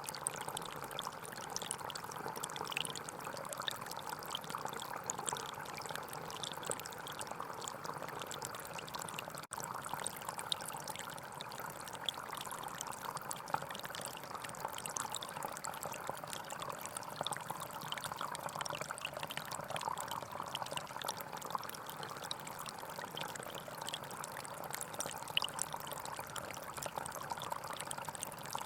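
Small forest stream flowing steadily over rocks, a continuous gurgling rush of water. A split-second dropout breaks it about a third of the way in.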